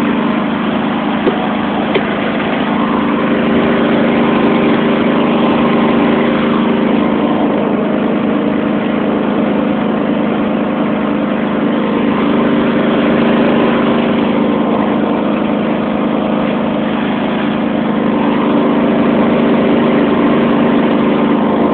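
John Deere 325 lawn tractor engine running steadily at an even speed, with a couple of faint clicks about a second or two in.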